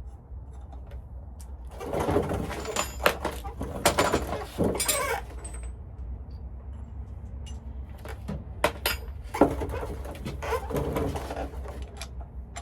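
Hand tools clicking and knocking on metal while a yoke puller is fitted to a truck driveshaft, in two busy spells, with wavering pitched squeaks among the knocks.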